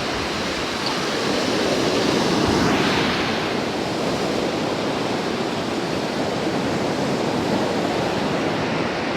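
Ocean surf breaking at the water's edge, a steady wash of rough waves; one wave swells louder and breaks about three seconds in.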